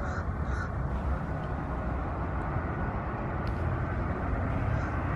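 Jet airliner's engines, a steady rumbling roar that slowly grows louder as the plane approaches overhead.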